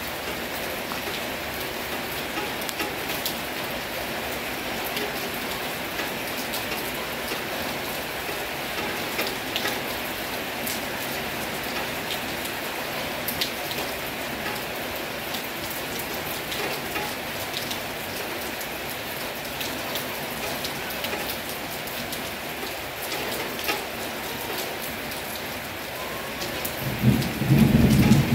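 Heavy rain falling steadily, with scattered sharper drip ticks. A low rumble of thunder swells near the end and is the loudest part.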